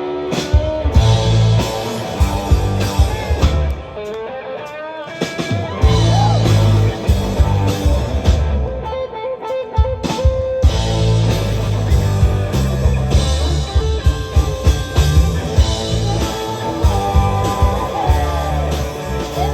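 Live rock band playing an instrumental passage, with guitar over bass and drums. The bass and drums drop back twice for a couple of seconds before coming in again.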